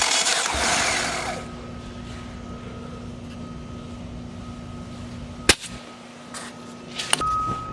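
Mitsubishi 4G63T turbo four-cylinder turned over by its starter for a compression test, the cranking stopping about a second and a half in. A low steady hum follows, with one sharp click a little past halfway and a few knocks near the end.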